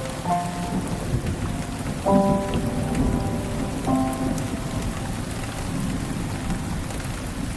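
Steady rain falling, with a low rumble of thunder underneath. A few soft, held musical notes sound about every two seconds, the loudest about two seconds in.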